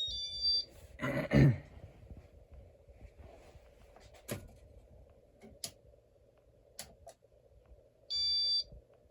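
Short electronic beeps from the Casablanca ceiling fan's control, one at the start and one near the end. About a second in there is a louder rustling knock, then a few sharp clicks over a faint steady hum.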